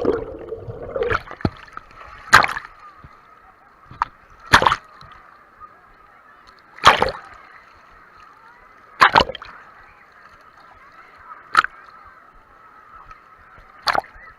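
Wave-pool water splashing and sloshing against a GoPro in its waterproof case, heard muffled through the case, in short sharp splashes about every two seconds as the waves come through. Under them runs a steady muffled background.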